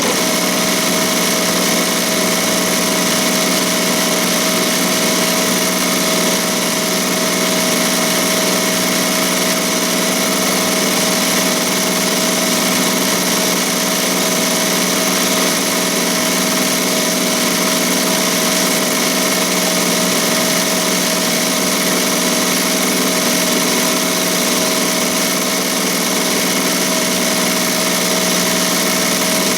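ZSK Sprint 10-needle embroidery machine running steadily, a dense, even mechanical whir of stitching with a few steady tones through it.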